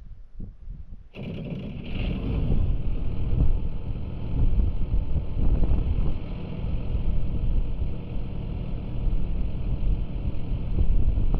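New Holland 8770 tractor's diesel engine, started by jumping directly at the starter, firing about a second in and then running steadily.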